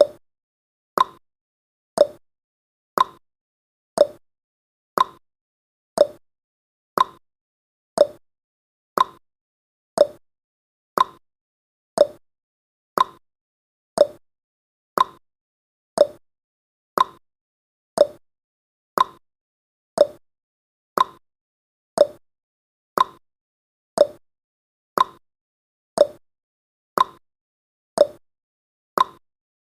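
Countdown timer's clock-tick sound effect: one short tick every second, alternating higher and lower like a tick-tock.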